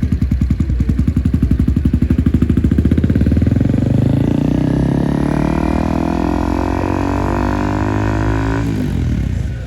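Motorcycle engine accelerating hard. Its pitch climbs steadily for several seconds, then drops abruptly near the end as the rider shifts or rolls off the throttle.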